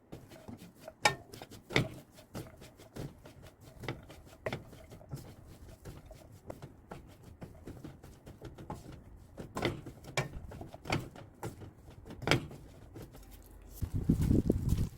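Irregular light clicks and knocks of kitchen handling, a dozen or so spaced out, with a louder stretch of noisy rustling near the end.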